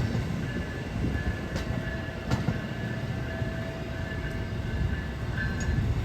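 Amtrak Northeast Regional passenger train on the move, a steady rumble of wheels on the rails with a few faint thin squealing tones and light clicks.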